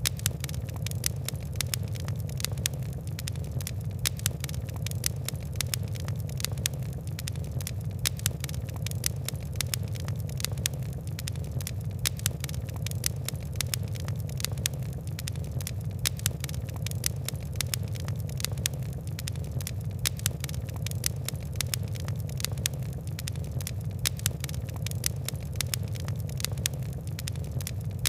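Fire crackling: frequent sharp, irregular pops and ticks over a steady low rumble of burning flames.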